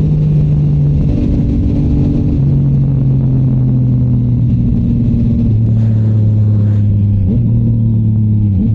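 Yamaha MT-09's three-cylinder engine through a Shark Street GP aftermarket exhaust, heard while riding. The note holds steady and drops lower in steps about three times, with two short blips of revs near the end, over rushing noise.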